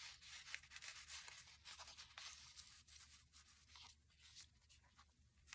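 Faint rustling and light ticks of paper journal pages being handled, over a low steady hum.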